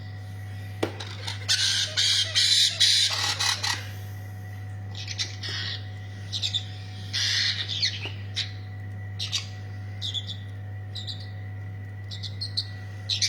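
Parrot chicks squawking: a run of loud, raspy calls in the first few seconds, then shorter squawks and chirps. These are hand-reared chicks at feeding time. A steady low hum runs underneath.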